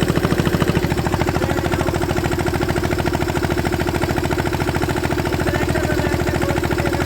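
Tractor diesel engine running steadily at a constant speed, its exhaust beating in rapid, even pulses.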